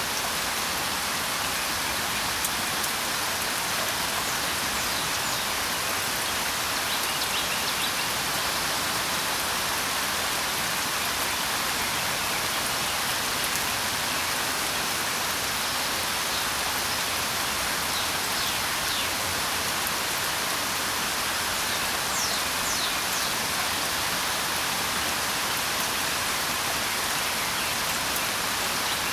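Steady rain falling, an even hiss of drops, with a few faint, short, high bird chirps now and then.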